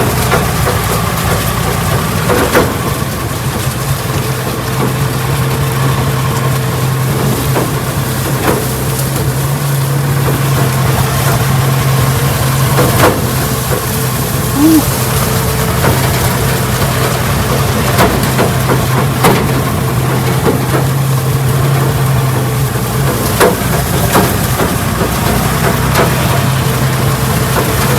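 1968 Ford Bronco's engine running steadily at low speed while driving over rough farm ground, with a sharp knock or rattle from the truck every few seconds.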